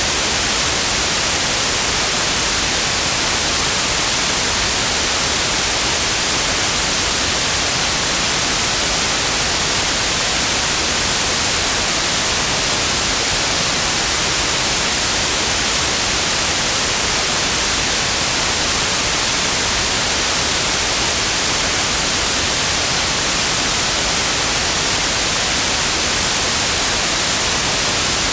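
Steady synthetic white noise: an even, unbroken hiss, strongest in the high end.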